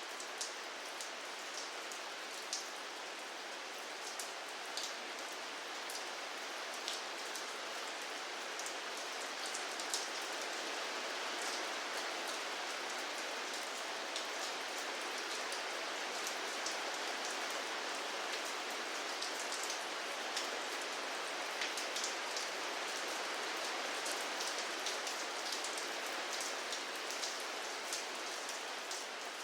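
Steady rainfall hitting a surface: an even hiss of rain with many small, sharp drop taps scattered through it.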